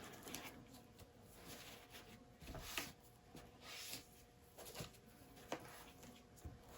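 Near silence with a few faint clicks and soft swishes of small objects being handled.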